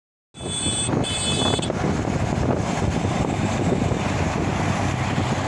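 Wind buffeting the microphone with a steady low rumble. A brief high-pitched tone sounds twice in quick succession near the start.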